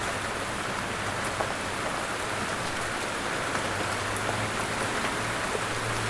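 Steady rain falling, an even hiss with a few faint drop ticks, and a low steady hum underneath that grows louder about two-thirds of the way through.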